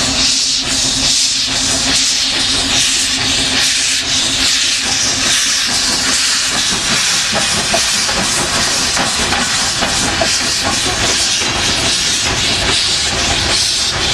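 Soviet class L steam locomotive L-0022 letting off steam: a loud, steady hiss. A faint low hum underneath fades out about six seconds in.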